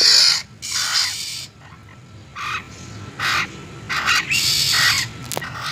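A caged bird giving a string of harsh, raspy calls, about six of them at irregular intervals, the loudest at the start.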